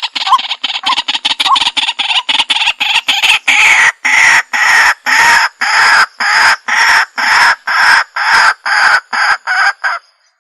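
Waterhen (jal murgi) calling: a fast, stuttering run of harsh notes, then loud, harsh calls about twice a second that stop abruptly near the end.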